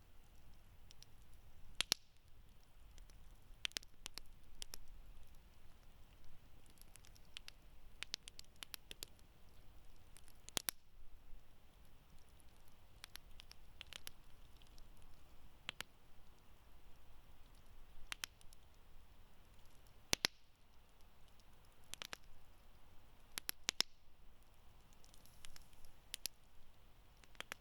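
Wood campfire crackling: irregular sharp pops and snaps every second or two over a faint steady hiss, with a few louder pops scattered through.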